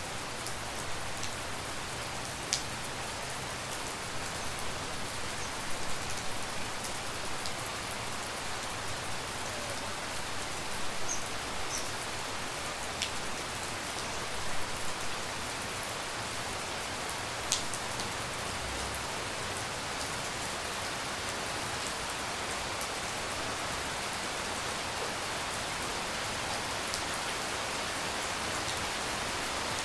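Steady tropical rain falling, an even hiss with scattered sharper drip ticks, most of them in the first half.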